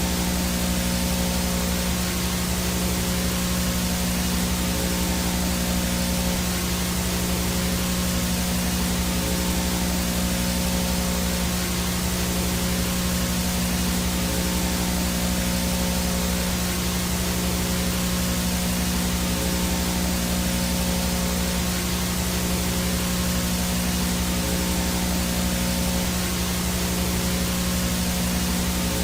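VHS static noise: a steady, unchanging hiss over a low hum, with a few faint steady tones in it.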